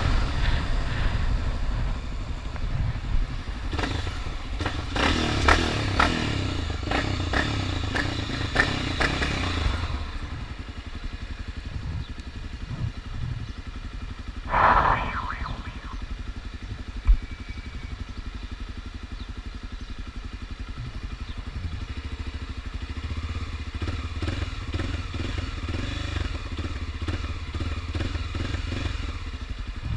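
Honda XRE 300's single-cylinder engine running while the bike is ridden, with clattering and wind noise for the first third, then settling to a quieter, steadier run. About halfway there is a brief louder sound lasting about a second, and soon after it a single sharp click.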